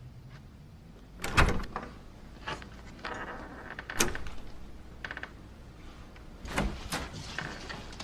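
A door being handled: a few sharp clicks and knocks of the latch and door, the loudest about a second in, with a brief rattle around three seconds in.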